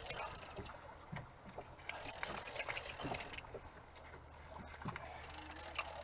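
Small polyethylene boat at anchor, water slapping and splashing against the hull, with scattered light knocks and clicks.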